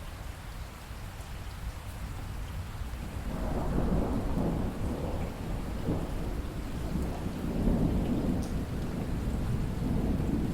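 Steady rain with a long rolling rumble of thunder that swells about three seconds in and keeps rolling.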